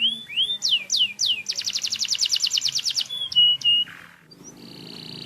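Canary singing: a run of whistled notes that sweep downward, then a fast even trill of about a dozen notes a second, then a few short clipped notes. After a brief pause about four seconds in, a buzzy rolling trill starts.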